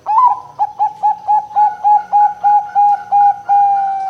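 Zebra dove (perkutut) cooing. It opens with a loud note, then runs through about a dozen short, evenly spaced coos at roughly four a second, and ends in one longer drawn-out coo.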